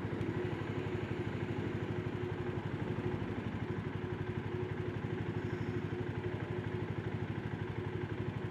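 Single-cylinder 650 cc engine of a BSA 650 Scrambler idling steadily at a traffic stop, an even, rapid pulsing exhaust beat.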